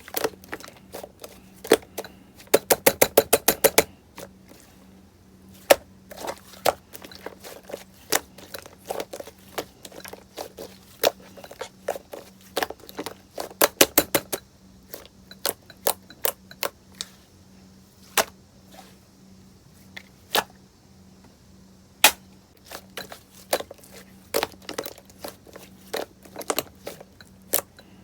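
Slime being squeezed and pressed by hand, making irregular sharp pops and clicks as air bubbles burst. Twice the pops come in quick rapid runs, about two seconds in and again around thirteen seconds.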